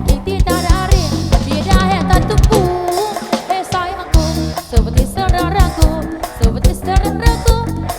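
Live band music: a drum kit keeps a steady beat under bass and a sung melody with wavering vibrato.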